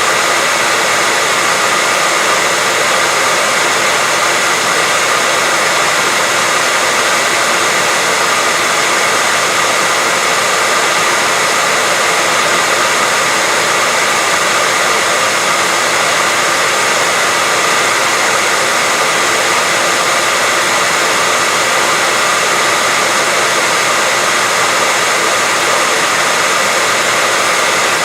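Steady white-noise hiss, even and unchanging, with a bright, hissy edge and no breaks.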